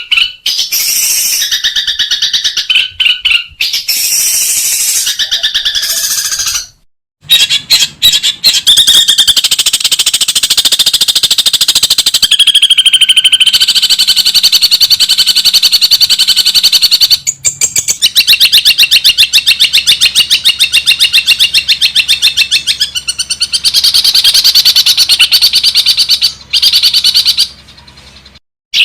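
Long-tailed shrike singing a loud, fast chattering song of rapidly repeated high notes, broken by a few short pauses, one about seven seconds in.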